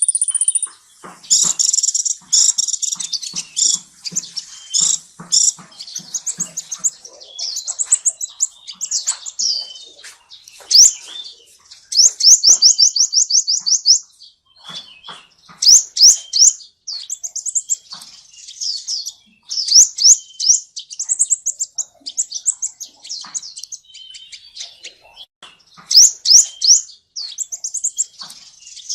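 Gouldian finches chirping and twittering in high-pitched calls, with a fast trill of quickly repeated notes about a third of the way through.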